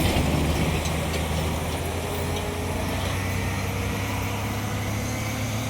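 Heavy truck engine running steadily, a low drone that eases off a little in the first couple of seconds.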